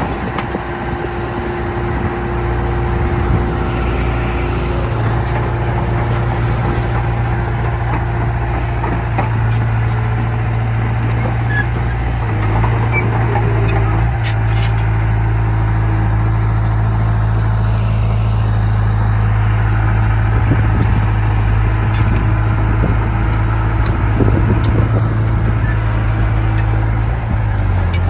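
Komatsu D31P bulldozer's diesel engine running steadily under load, its engine speed shifting up and down a few times as it pushes soil.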